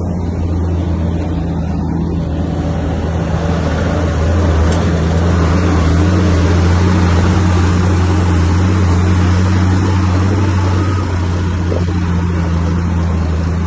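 Bulldozer's diesel engine running steadily. It grows louder and rougher for several seconds in the middle, as if working under load, then eases back.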